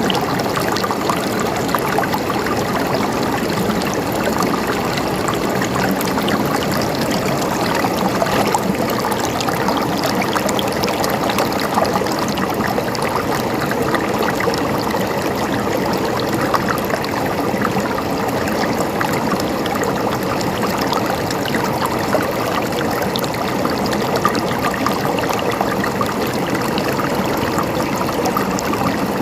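River water flowing steadily over rocks, a continuous rushing and babbling with small splashes.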